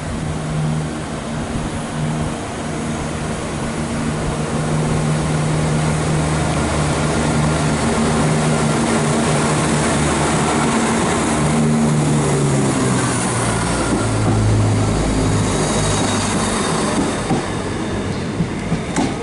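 Class 168 diesel multiple unit pulling out of the station and running past, its underfloor diesel engines growing louder as the coaches go by. The engine note drops in pitch about two-thirds of the way through, and there are a few sharp clicks near the end.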